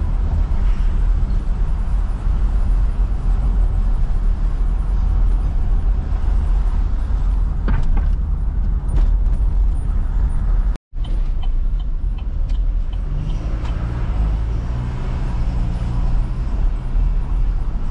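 Steady low rumble of a car driving slowly, engine and road noise, with the sound cutting out completely for a moment about eleven seconds in.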